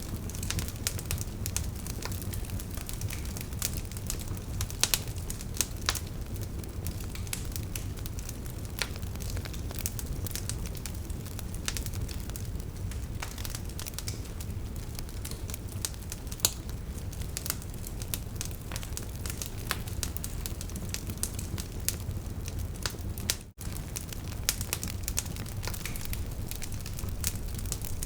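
Wood fire burning with frequent sharp crackles and pops over a steady low rumble of flame. The sound drops out for an instant about 23 seconds in.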